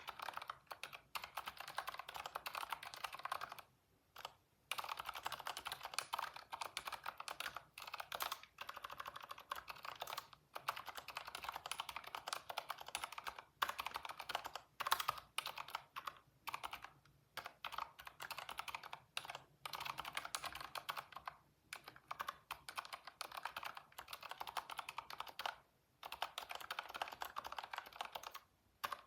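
Typing on a computer keyboard in quick continuous runs, broken now and then by brief pauses of about half a second.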